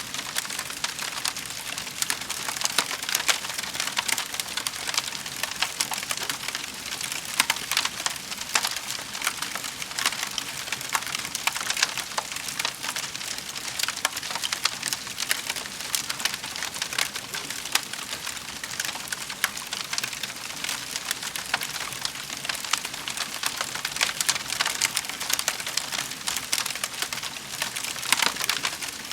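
Wood fire burning in a fireplace, crackling and popping steadily with a constant fast patter of small snaps.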